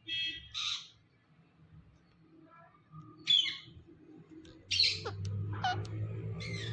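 Pet green parrot squawking: two harsh screeches at the start, another about halfway through, then a quick run of shrill calls and downward-sliding whistles in the last two seconds, with a low hum underneath.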